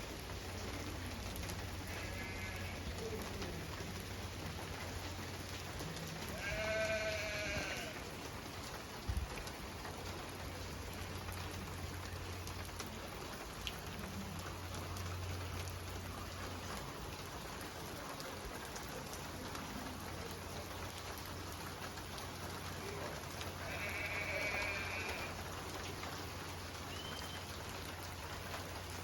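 Steady rain falling, with a farm animal bleating three times. The middle bleat is the loudest.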